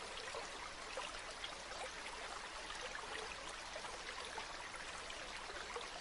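A shallow river or stream flowing steadily, a constant rushing hiss with many small splashes and trickles through it.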